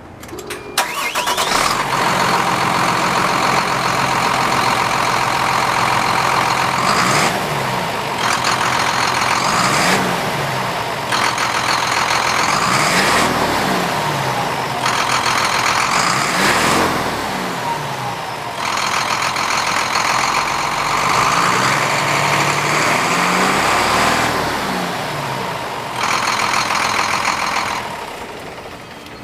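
2015 Hino 268 truck's inline-six turbo diesel cranks and catches about a second in, then runs, revved up and back down several times. A loud high-pitched hiss cuts in and out in stretches of several seconds. The sound drops in level near the end.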